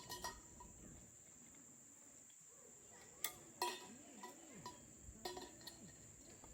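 Light metallic clinks that ring briefly, some in quick pairs, scattered over a steady high-pitched insect drone.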